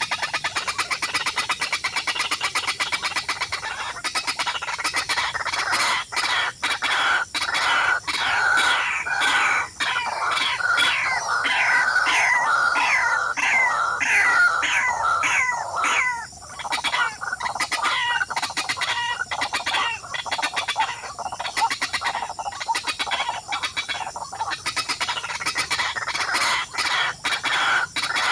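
Birds calling: first a fast rattling trill, then from about six seconds a long run of repeated downward-sliding calls, about two a second.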